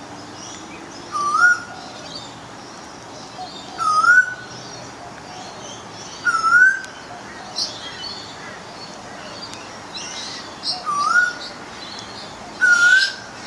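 A bird repeating a short upslurred whistle five times, a few seconds apart, with fainter high chirps from other birds in between.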